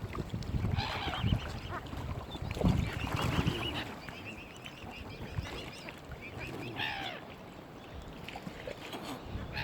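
Waterfowl calling: many short, repeated pitched calls in clusters, busiest in the first few seconds, over a low rumble.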